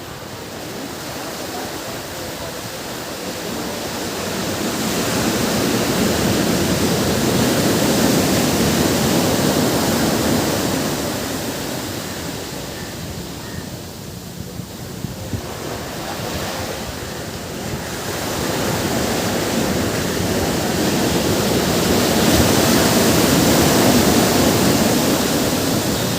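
Ocean surf on a beach: a steady rush of waves that swells and eases, building twice to a louder wash about fifteen seconds apart.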